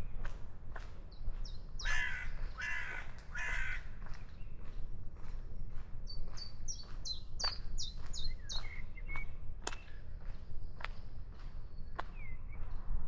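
Wild birds calling: two or three harsh, raspy calls a couple of seconds in, then a quick run of short, high chirps from another bird. Sharp little clicks are scattered throughout.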